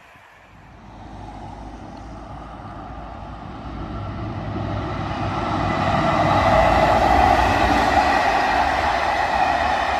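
Train approaching, growing steadily louder to a peak about seven seconds in, with a rumble under a steady higher ringing of wheels on rail.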